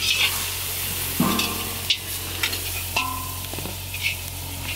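Ginger-garlic paste sizzling in hot oil with frying onions in a large iron karahi over a wood fire, while a long metal ladle stirs it with scattered scraping clicks against the pan.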